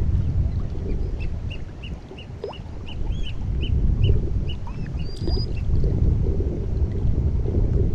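Sea water lapping and wind on the shore, with a bird calling a quick series of short high notes, about three a second, from about a second in to about four seconds in, and a thin whistle near the end.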